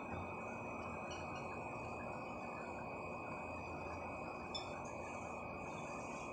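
Outdoor ambience: a steady low rush of background noise with a constant thin high whine, and scattered faint, short high-pitched notes.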